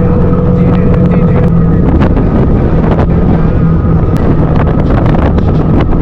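Motorcycle engine running at a steady pace while riding, with wind buffeting the microphone and a few sharp clicks throughout.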